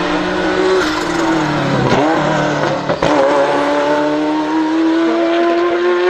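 Ferrari F40 LM's twin-turbo V8 under hard acceleration. The note falls and wavers briefly about two seconds in, then climbs steadily in pitch for the rest of the pull.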